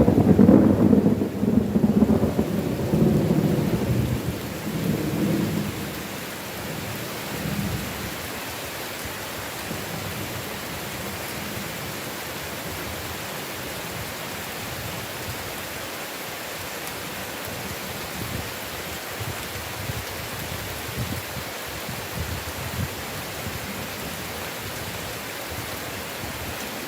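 Thunderstorm with heavy, steady rain. A loud clap of thunder at the start rumbles and rolls away over about six seconds, leaving an even hiss of rain.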